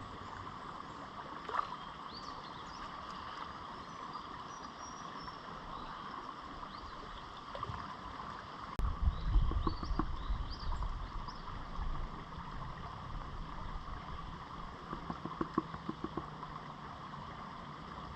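Steady rush of fast-flowing creek water. From about nine seconds in, irregular sloshing and low rumbling join it, as a gold pan of concentrates is worked in the water.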